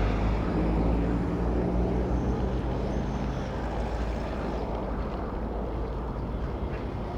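Road traffic heard from a moving bicycle: a vehicle engine's low hum close by for the first few seconds, fading away, over a steady low rumble of wind and traffic.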